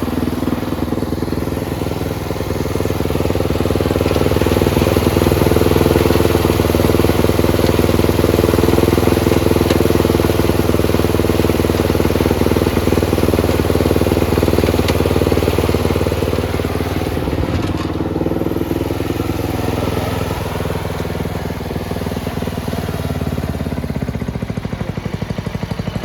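Small gasoline engine on a lawn tractor running steadily. It gets louder a few seconds in and eases off again near the end.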